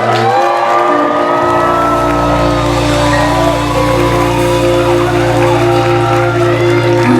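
Live band music holding long sustained notes, with a deep bass note coming in about a second and a half in.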